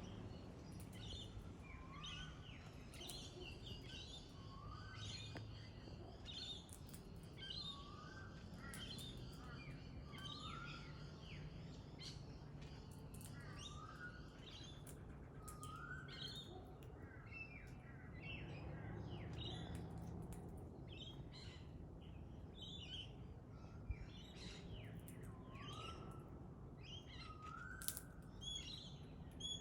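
Pale-headed rosella calling: many short high chirps and a short rising whistle repeated every couple of seconds, over a faint steady low hum.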